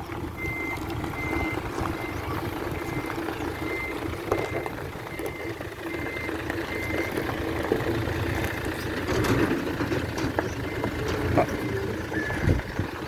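Backup alarm beeping, about two short high beeps a second, over a running engine; the beeping stops a little past halfway while the engine keeps running.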